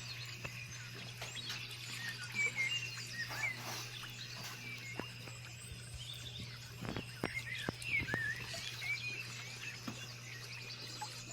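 Small birds chirping, with many short overlapping notes that rise and fall, a few sharp clicks about seven seconds in, and a steady low hum underneath.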